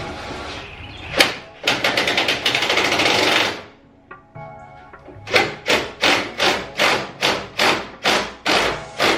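A power driver running screws in, with a fast rattle of clicks for about two seconds. It stops, then a string of sharp, evenly spaced clicks follows, about two and a half a second. A music beat plays underneath.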